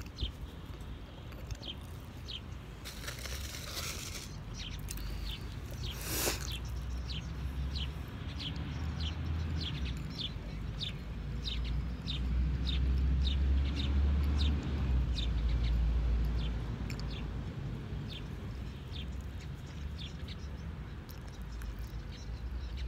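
Small birds chirping over and over, each call a short, high note that slides downward. There is a brief rushing sound about three seconds in and a sharp sound about six seconds in, over a low wind rumble on the microphone that swells midway.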